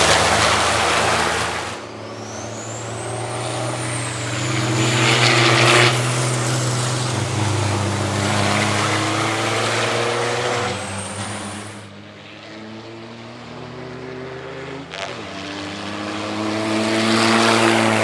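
Diesel race trucks driving past at racing speed, their engine notes rising and falling as they come and go. The sound swells three times, near the start, about six seconds in and near the end, each swell carrying a loud hiss.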